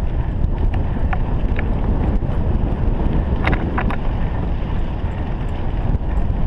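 Steady low rumble of wind buffeting the microphone while moving along a dirt trail behind a running sled dog, with a few short high squeaks about a second in and again around three and a half seconds.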